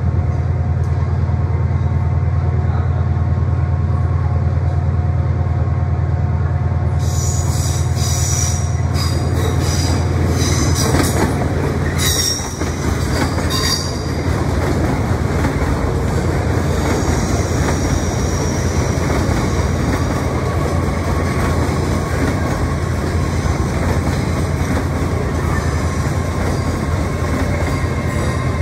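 LNER Azuma train rolling slowly round the curve into the platform, its wheels squealing in high, on-and-off squeals from about seven seconds in over the rumble of wheels on rail. A steady low hum underneath drops away about twelve seconds in.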